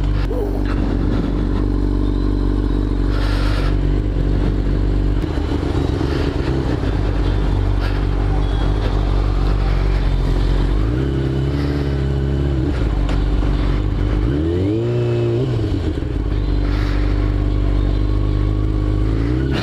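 Motorcycle engine running steadily, revved up and back down twice in the second half.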